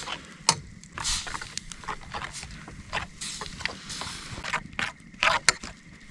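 A string of irregular clicks, knocks and short scrapes, with a few sharper ones about half a second in and just after five seconds.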